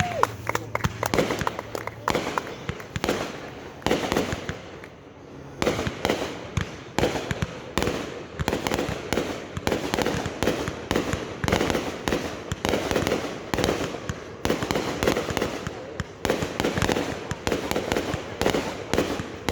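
Fireworks going off in a rapid, continuous barrage of sharp pops and cracks, like strings of firecrackers. The barrage thins for a moment about four seconds in, then picks up again.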